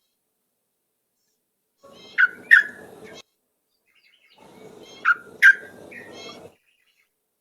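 Sooty-headed bulbul singing: two short song phrases, a little over a second each and about two and a half seconds apart, each built around two loud sharp notes.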